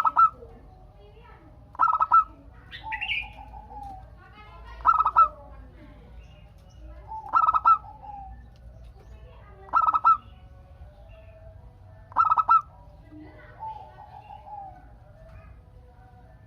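Zebra dove (perkutut) cooing: six loud, short calls at a steady pace of about one every two and a half seconds, each a quick double note. Softer, lower cooing runs between them.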